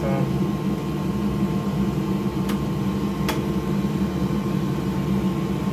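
Steady machine hum of bench equipment running, with two short, sharp clicks about two and a half and three and a half seconds in as PS5 console parts are handled during reassembly.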